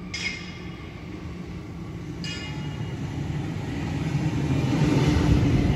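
Sydney Trains Waratah Series 2 electric train (B-set) approaching the platform, its low rumble growing steadily louder as it draws near. Two short high ringing sounds come just after the start and again about two seconds in.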